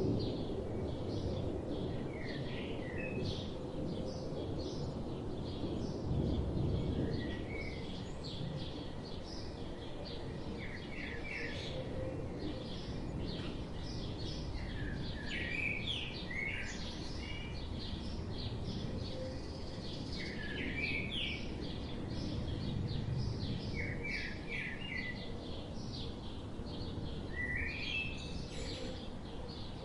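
Birds chirping: many short, high chirps and quick runs of falling notes, several birds at once, over a steady low background rumble.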